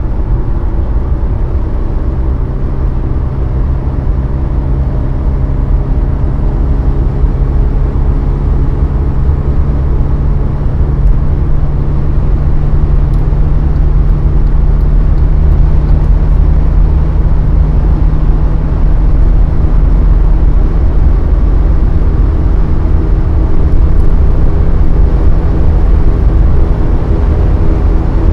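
Inside the cabin of a Mercedes-Benz W124 200 E, its M102 four-cylinder petrol engine pulls steadily under smooth acceleration at autobahn speed. Engine drone mixes with road and wind noise, and the sound grows gradually louder as the car gains speed.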